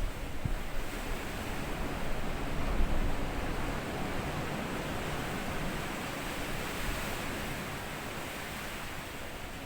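Small sea waves washing up onto a sandy beach and drawing back, a steady hiss of surf with low rumble. The surge is strongest in the first few seconds, then fades as the water recedes.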